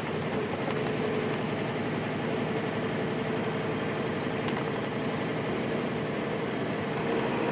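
Nissan Diesel Space Runner RM (KC-RM211) mid-size bus's FE6 inline-six diesel engine running steadily, with a steady whine over the engine noise.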